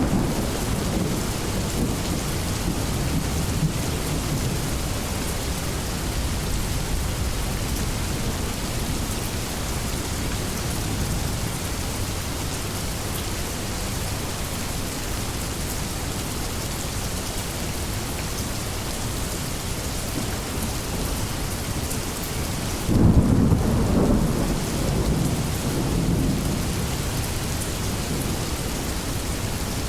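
Steady rain with thunder: a low rumble dying away at the start, and a louder rumble breaking out about three-quarters of the way through and fading over a few seconds.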